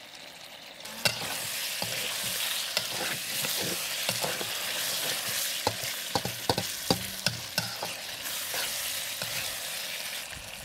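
Tomato, onion and ketchup sauce sizzling in a stainless steel electric wok, the sizzle starting about a second in as a spoonful of rice vinegar goes into the hot pan. A metal spatula stirs and scrapes the wok, with a run of sharp clacks against the metal in the second half.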